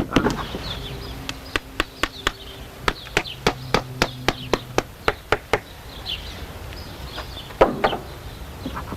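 A series of sharp knocks, about two to three a second, pausing for a couple of seconds before a last cluster near the end, with faint bird chirps behind.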